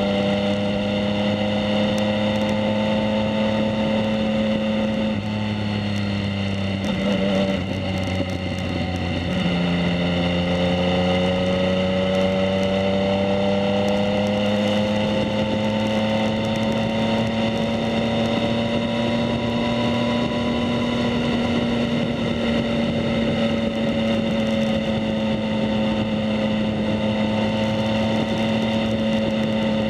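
A 2019 Yamaha MT-09's inline-three engine through a Two Brothers S1R full exhaust, running steadily under way. The note dips and wavers about seven to nine seconds in, then rises gradually and levels off.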